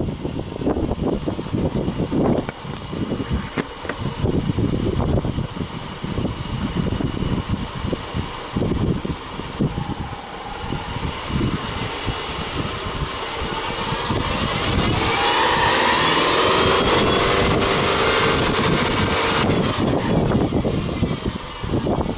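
Subaru Legacy Touring Wagon 2.0i's flat-four boxer engine idling with the bonnet open. About two-thirds of the way through it is free-revved: the pitch climbs, stays high for several seconds, then falls back to idle near the end.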